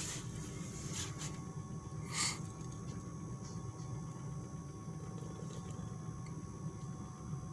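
Mercedes-Benz W202 C-Class engine idling steadily at about 1000 rpm while still cold, heard from inside the cabin as a low steady hum. A few faint clicks come about a second in, and a brief hissing noise about two seconds in.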